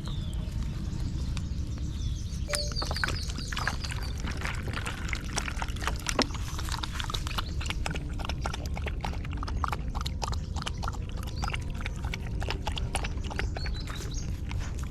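Street dogs eating, a dense run of small clicks and smacks of chewing and mouthing food over a steady low rumble, with a brief falling squeak about six seconds in.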